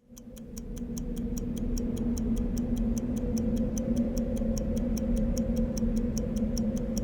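Rapid, even ticking, about six ticks a second, over a steady low hum; it fades in at the start.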